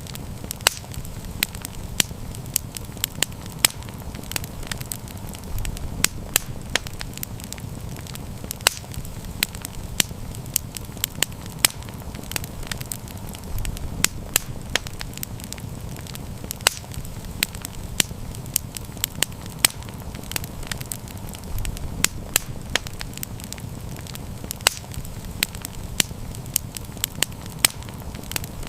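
Campfire crackling, with frequent sharp pops scattered irregularly, several a second, over a low steady rumble.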